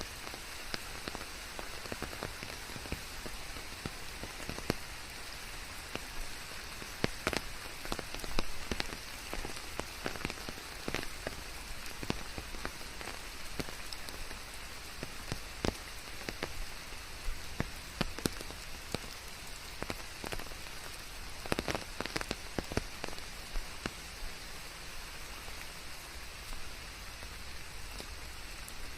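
Steady rain with a constant hiss and many sharp, irregular drop impacts, pattering on leaves.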